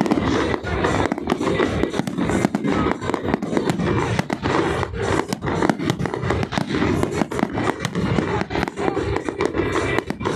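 Fireworks going off in a dense, continuous barrage of bangs and crackles, many a second, with music playing underneath.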